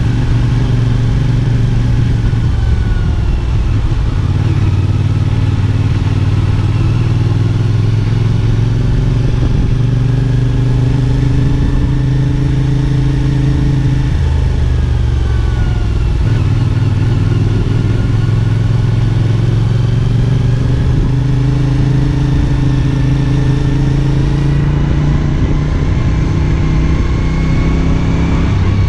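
CFMOTO 450SR S's parallel-twin engine running on the move, its pitch easing up and down a few times with throttle and gear changes.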